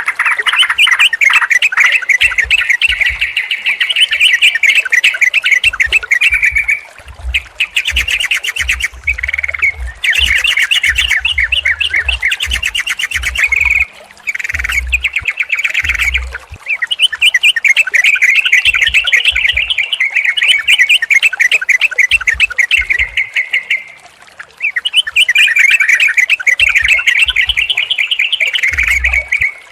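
Yellow-vented bulbuls (trucukan) singing and chattering in long runs of rapid, loud notes, with a few short pauses between phrases.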